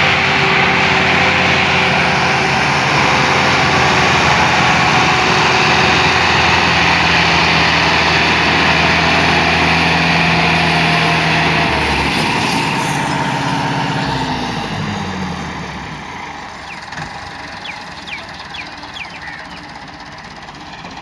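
Diesel tractor engine running loud and steady, then its pitch falls and it fades away about fifteen seconds in.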